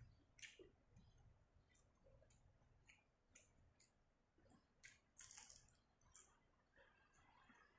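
Very faint close-up eating sounds: small mouth clicks and wet smacks of chewing, with a brief crunchy sound about five seconds in as battered fried shrimp is bitten and chewed.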